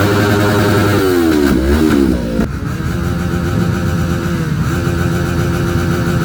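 Motorcycle engine revving: its pitch dips and climbs a few times, then settles about two and a half seconds in to run steadily at a lower pitch.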